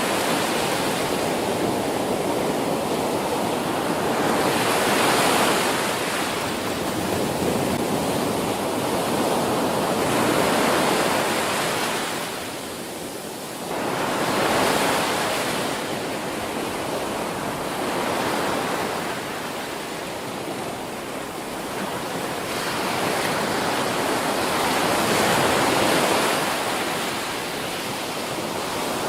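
Ocean surf breaking on a beach: a continuous wash of waves that swells and eases every few seconds as each wave crashes and runs out.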